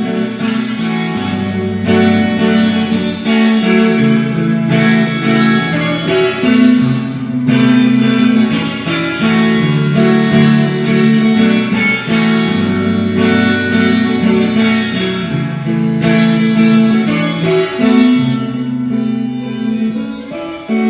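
Guitar strumming sustained chords in a slow instrumental outro, changing chord every couple of seconds, with no singing over it.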